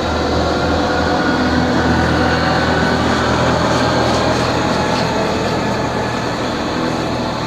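Steady, loud mechanical rumble with a strong low hum and several steady tones, the running noise of a large machine or vehicle.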